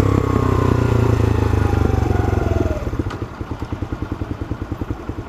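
Sinnis Apache 125cc single-cylinder motorcycle engine coming off the throttle, its pitch falling as the bike slows, then dropping to idle about three seconds in with an even putting beat of about nine pulses a second.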